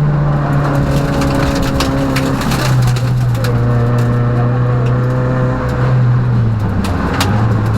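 Peugeot rally car's engine heard from inside the cabin, pulling hard at a steady pitch that steps down about two and a half seconds in and again near the end. Sharp ticks and knocks come through over it at intervals.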